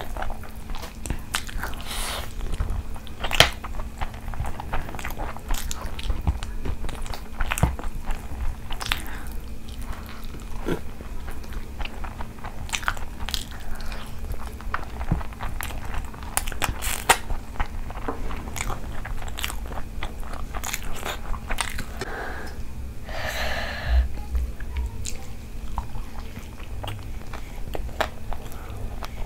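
Close-miked chewing and biting while eating curry and rice by hand: wet smacking and clicking mouth sounds throughout, with a faint steady hum underneath.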